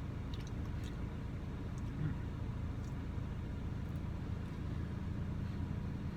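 Steady low rumble with a few faint, short clicks scattered through it.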